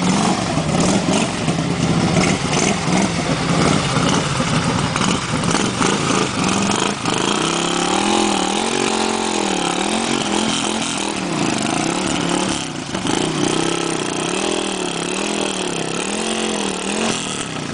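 Motorcycle engine noise throughout. In the second half one engine is revved up and down again and again, about once a second.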